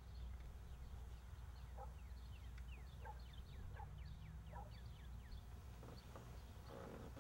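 Faint birds chirping, with a quick run of falling chirps in the middle and a few short calls scattered around them, over a low steady hum.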